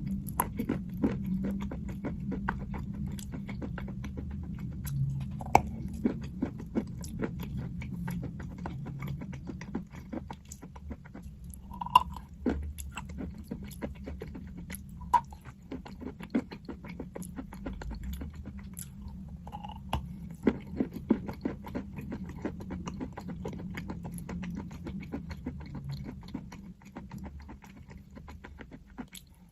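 A person biting and chewing crunchy chalk close to the microphone: dense, continuous crackling crunches, with short lulls about a third and two-thirds of the way through.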